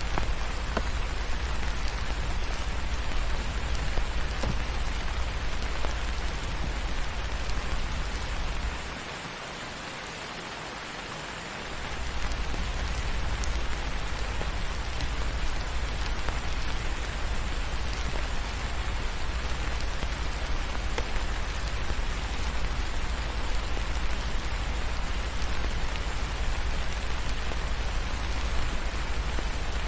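Steady rain falling, an even hiss with scattered faint drop ticks over a deep low rumble. The rumble drops out for about three seconds, roughly nine seconds in, then returns.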